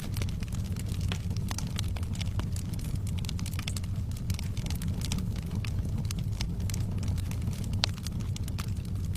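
Wood fire crackling: many irregular sharp pops and snaps over a steady low rumble, with one louder crack near the end.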